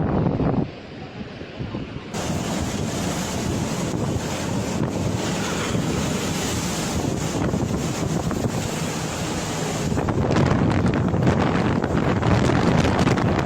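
Strong storm wind blasting across the microphone as a loud, steady rush of noise. Its character changes abruptly a few times, at about half a second, two seconds and ten seconds in.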